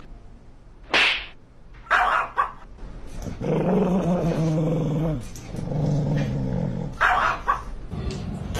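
A dog barking with short single barks, then two longer, lower growls, then another bark near the end.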